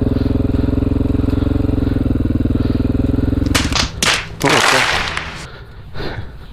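Honda XR400R single-cylinder four-stroke engine running at steady revs. About three and a half seconds in, the engine note drops and a run of sharp knocks and a loud rushing noise follow. The engine then settles to a low, even idle.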